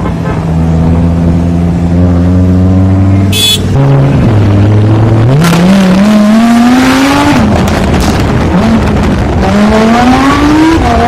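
Lamborghini Huracán's V10 engine holding a steady drone, then accelerating hard twice, its pitch climbing through each gear and dropping sharply at the upshift.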